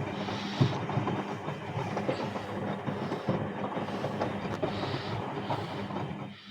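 Bauknecht WAS 1400 washing machine running, with a dense, steady rattling clatter that drops off sharply near the end.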